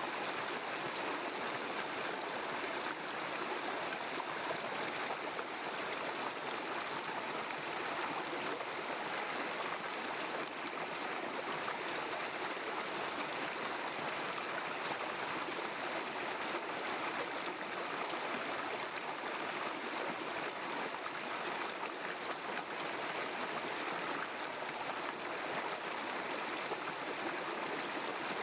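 River stream water flowing and rushing steadily, an even, unbroken wash with no single splashes standing out.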